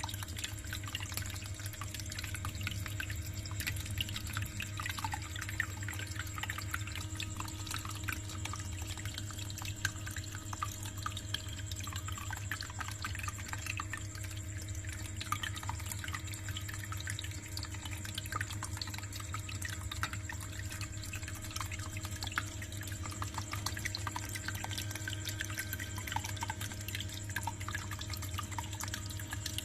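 Small homemade tabletop water fountain running: water trickles and drips steadily over a constant low hum from its small DC water pump.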